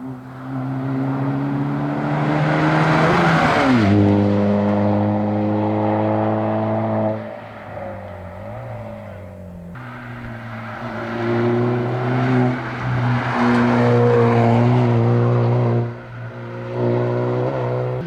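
Rally car engines at full throttle on a tarmac stage. One car passes close, and its engine note drops sharply about four seconds in. After an abrupt break, a second stretch of hard-revving engine runs until it falls away about sixteen seconds in.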